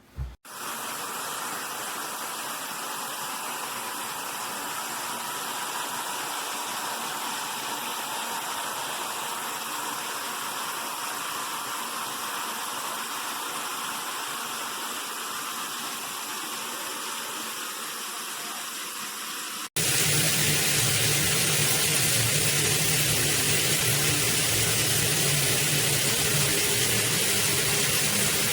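Water spraying steadily from a shower head. About two-thirds of the way through, the sound cuts abruptly to a louder, fuller spray.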